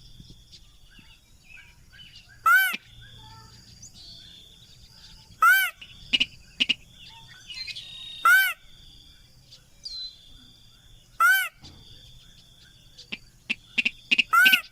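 Sintar crake (mandar padi) lure call: a loud, short call that arches up and down in pitch, repeated about every three seconds, five times. Faint chirps and a steady high tone sit between the calls, and near the end a fast run of shorter calls begins.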